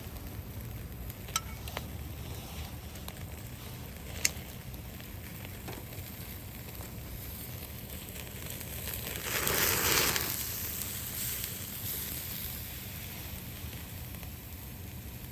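Steak sizzling on a grill grate over a wood campfire, with a couple of sharp crackles from the fire. About nine seconds in the sizzle swells loudly, then dies back over a few seconds.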